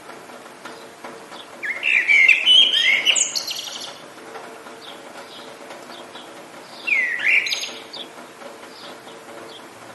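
Songbirds singing: two loud warbling phrases, one about two seconds in and a shorter one about seven seconds in, with fainter chirps between them over a faint steady hiss of rain.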